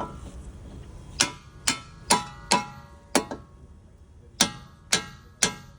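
Hammer striking a nut threaded flush on the end of a strut bolt, driving the bolt out of the steering knuckle: eight sharp, ringing metal-on-metal strikes, five in quick succession and then three more after a short pause.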